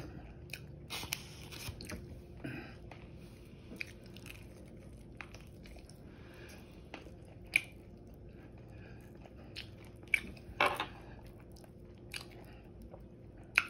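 Close-miked chewing and biting of crispy air-fried chicken wings, soft mouth sounds broken by a few sharp crunches and clicks, the loudest about eleven seconds in.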